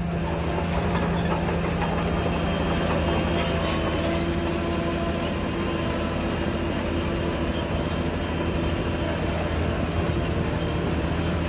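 Heavy diesel earthmoving machine running steadily under a constant low engine drone, its pitch holding level throughout, with a faint clatter over it.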